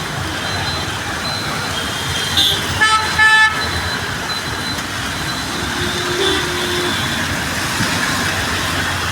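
Road traffic on a rain-wet street: a steady wash of vehicle noise, with a vehicle horn giving a short double toot about three seconds in.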